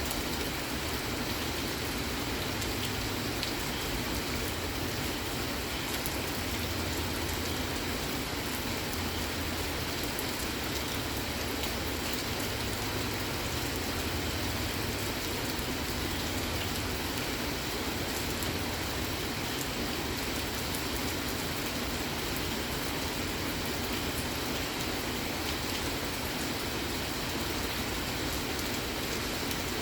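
Steady rain falling: an even hiss of rain with many small drop ticks, holding at a constant level.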